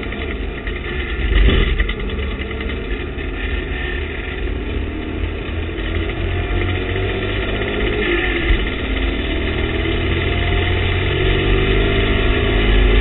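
TVR Tuscan race car's engine heard from inside the cockpit, running hard under load. There is a louder surge about a second and a half in, then the revs and loudness climb steadily as the car accelerates.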